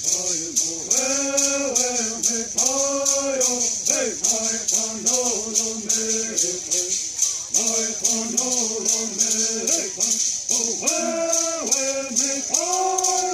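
Kumeyaay bird songs sung in unison, with gourd rattles shaken in a steady, quick beat under the sung phrases.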